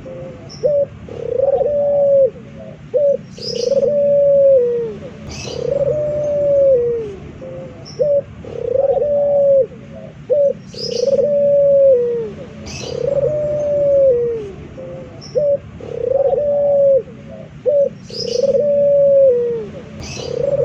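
Male Barbary dove (puter) cooing over and over. Each coo is drawn out and dips in pitch at its end, and one comes about every two seconds, with short clipped notes between some of them. Small birds chirp faintly now and then in the background.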